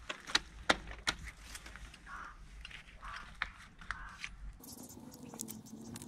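Metal tools and engine parts clinking and knocking as they are handled, a run of sharp clicks in the first couple of seconds with scraping between, then a quieter stretch with a low hum near the end.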